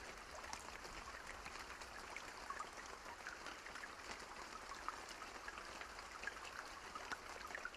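Steady rain falling, with many separate drops pattering in a continuous hiss.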